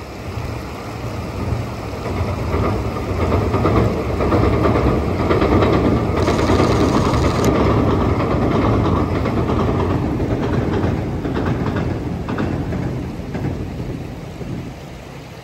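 381-series electric limited express train crossing a steel girder bridge, rumbling as it passes. The sound builds, is loudest in the middle and fades away near the end, with some rail-joint clatter as it draws away.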